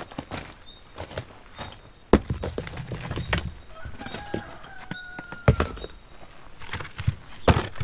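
Irregular knocks and clacks, with three heavier thuds about two, five and a half and seven and a half seconds in, over short high chirps that repeat.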